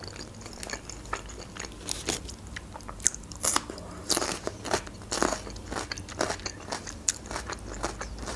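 Close-miked eating: wet chewing and mouth clicks, with crisp crunching bites of raw bell pepper, loudest and densest about three to five and a half seconds in.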